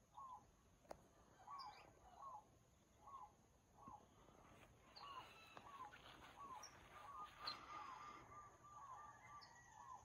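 Faint outdoor birdsong: a short arching call repeated over and over, coming closer together in the second half, with a few brief higher chirps over it.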